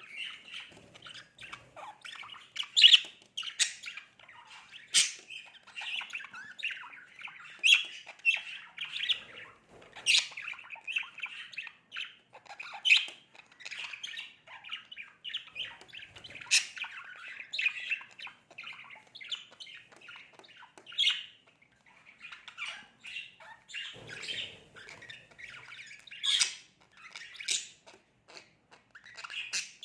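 Pet budgerigar warbling and chattering without a break, with frequent sharp, louder chirps scattered through it.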